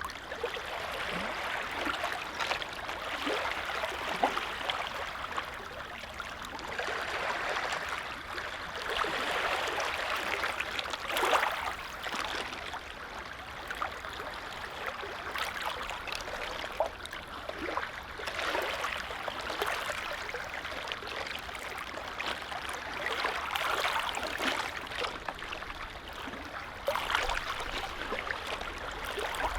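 Small lake waves lapping against the shore, swelling and easing every few seconds with light splashes, one a little louder about eleven seconds in.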